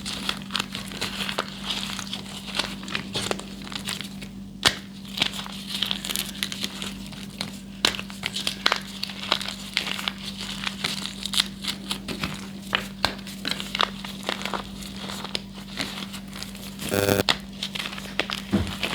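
Gym chalk being crushed and crumbled by hand: a dense run of dry crunching and crackling, over a steady low hum. A short buzz comes near the end.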